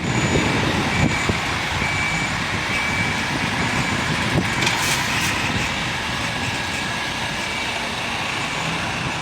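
Heavy Mercedes-Benz truck diesel engines running steadily, with a reversing beeper sounding about once a second in the first few seconds.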